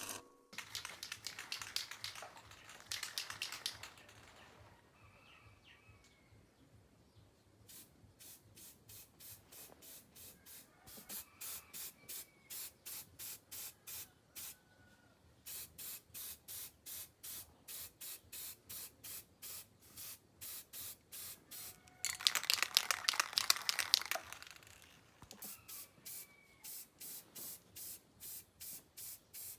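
Rhythmic scraping strokes, about two a second, in long runs. There are a few longer hissing bursts near the start and a louder hiss lasting about two seconds around 22 seconds in.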